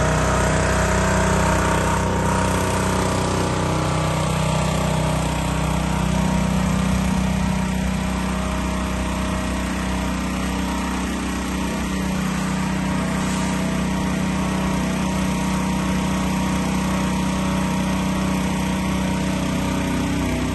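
Small petrol engine of a Tsuzumi THWP 3100 gasoline pressure washer running steadily.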